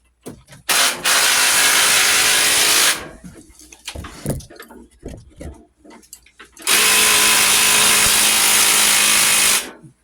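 Impact wrench run in two long bursts of about two and three seconds on an engine mounting bolt, which does not break loose.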